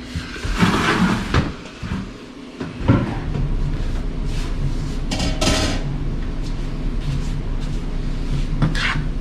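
Kitchen handling sounds: cookware and containers clattering and knocking, with a sharp bang like a cupboard or appliance door about three seconds in. After that a steady low hum runs underneath, with a brief noisy clatter a couple of seconds later.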